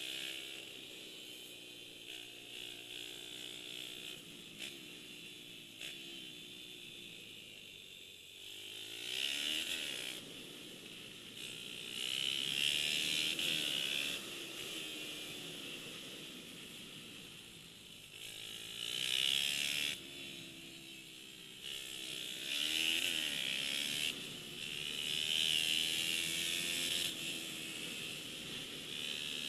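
190cc Daytona single-cylinder four-stroke pit bike engine revving up and down as the bike rides laps. It swells louder and fades several times as it comes near and moves away.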